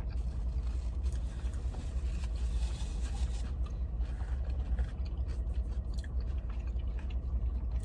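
Close-up chewing and biting of a crispy fried chicken tender on a glazed doughnut bun, with wet mouth sounds and crunches, over a steady low hum.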